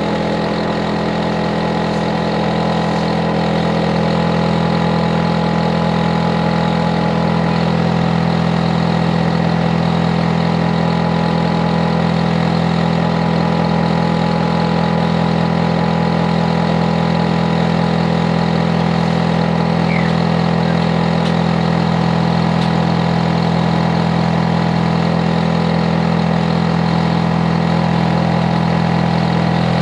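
Hitachi air conditioner's outdoor unit running with a steady hum of strong low tones, the compressor and fan together; it swells a little over the first few seconds and then holds. The running noise is loud enough to be a noise problem next door.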